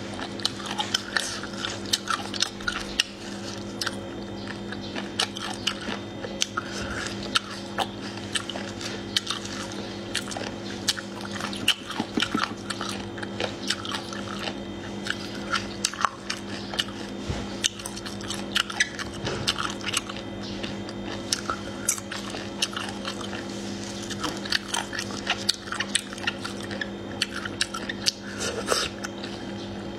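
Close-miked chewing and biting of soft, saucy food eaten by hand: a dense, irregular run of wet mouth clicks and smacks, over a steady low hum.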